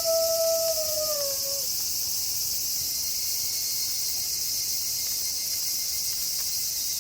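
A wolf's howl holds one steady note, then falls in pitch and ends about a second and a half in. After it, only a steady, high insect chorus remains.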